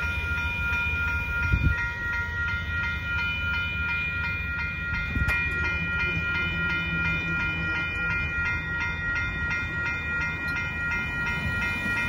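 Amtrak passenger train rolling slowly over the grade crossing with a steady low rumble and a couple of brief clanks, while the crossing's electronic warning bell rings rapidly.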